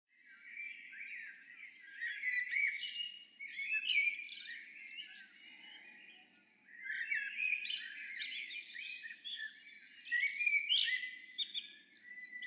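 Songbirds chirping and singing in quick, busy phrases, in two stretches with a short break about six and a half seconds in, over a faint low hum.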